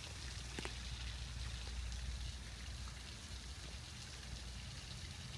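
Steady splashing and trickling of a backyard rock waterfall running into its pond, with a low rumble underneath.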